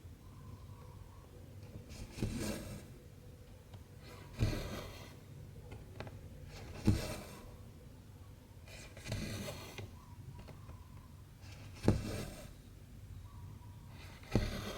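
Cross-stitch needle pushed through stretched 14-count fabric and the cotton thread drawn through behind it. Each stitch is a sharp tap followed by a short rasp, six times, about every two and a half seconds.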